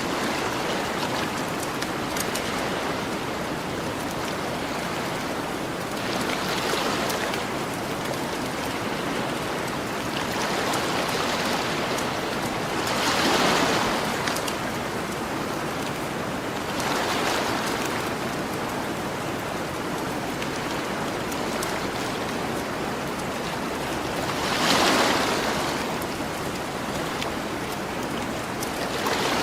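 Ocean waves washing onto a beach: a steady rush of surf that swells every few seconds, loudest about halfway through and again near the end. Faint crackling of a campfire runs under the surf.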